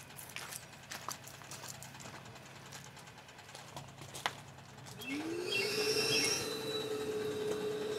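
An electric machine motor switching on about five seconds in, its whine rising quickly in pitch and then holding steady.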